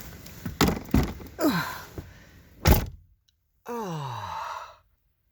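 Several knocks and thumps of someone climbing into a vehicle and settling into a seat, the loudest a sharp knock a little under three seconds in. Then a person's low groan falling in pitch for about a second; the sound cuts out abruptly twice.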